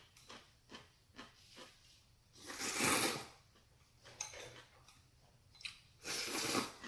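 Close-up eating sounds: a run of small wet mouth clicks and smacks, then two longer noisy bursts about two and a half and six seconds in.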